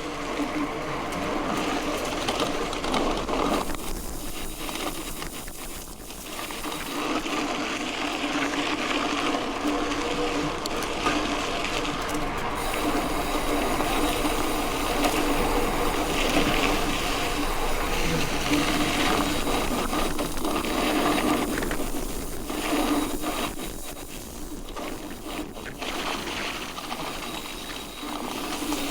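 Mountain bike rolling along a dirt road: tyres running over the gravel with the bike's steady mechanical whirr and rattle, and a hiss of wind on the microphone. The level dips briefly a few times and otherwise runs on evenly.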